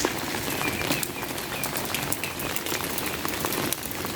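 Steady rain falling, with many close, sharp drop taps, and a few short bird chirps about half a second to a second in.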